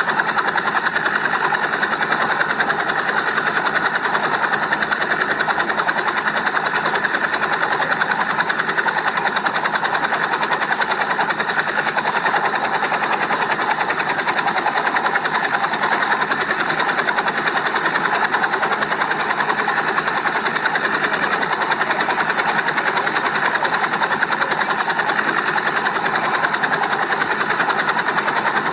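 Steady whirring of a small motor and its rotor, running without a break and with a fast flutter.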